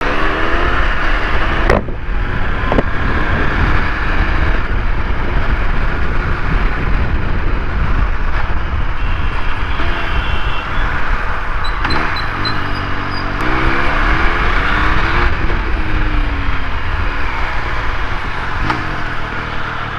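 Triumph Speed Triple 1200 RS inline-three engine running under heavy road and wind noise, its pitch rising and falling several times about twelve to sixteen seconds in as the throttle is worked.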